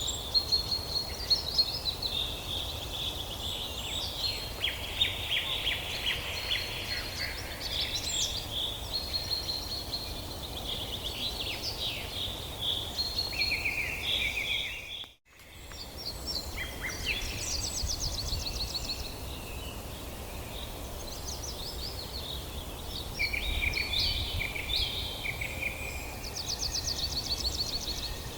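Several songbirds singing and calling at once, a mix of chirps, short whistles and rapid trills, over a steady low rumble. Everything drops out briefly about halfway through.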